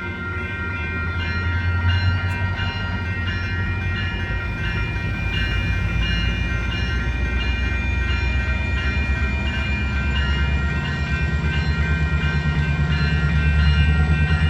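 Metrolink MP36PH-3C diesel locomotive approaching, its low engine rumble growing steadily louder. A steady, evenly pulsing ringing runs above it throughout.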